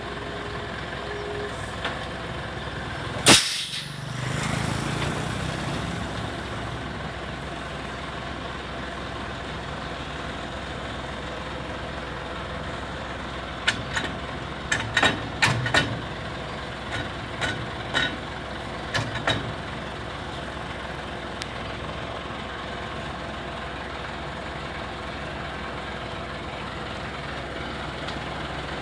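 Ten-wheel dump truck running steadily, with the end of an air horn blast in the first second or so and a loud, sharp air-brake release about three seconds in, followed by a short low rumble. A cluster of short sharp knocks comes in the middle.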